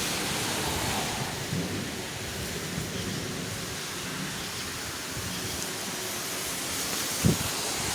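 Steady rain falling during a thunderstorm, with a low rumble of thunder fading out over the first second or two. A short, sharp thump comes near the end.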